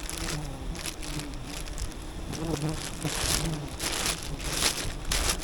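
Swarm of wild honeybees buzzing around the hive, with bursts of rustling and crunching that come and go over the hum.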